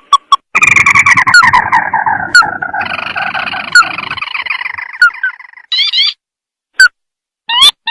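Crake (tikusan) call played as a lure recording: a rapid run of repeated, falling trilled notes lasting about five seconds, followed by a few short single notes near the end.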